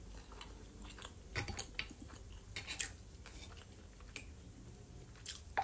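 Close-up chewing of fried potatoes with soft wet mouth clicks, and a few light clicks of cutlery against the bowl as she scoops salad.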